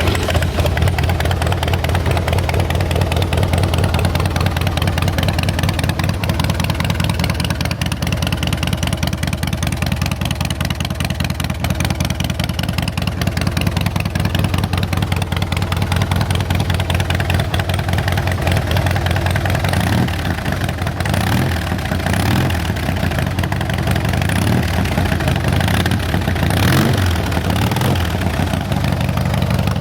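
Harley-Davidson Softail Custom's Twin Cam 88 V-twin running through Vance & Hines pipes, idling with a loud, lumpy, evenly pulsing note. About two-thirds of the way through it is given several short throttle blips, then settles back to idle.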